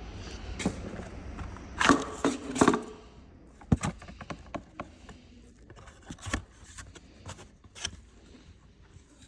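Hand tools and parts being handled on the engine: a scraping clatter about two seconds in, then a few separate sharp clicks and knocks.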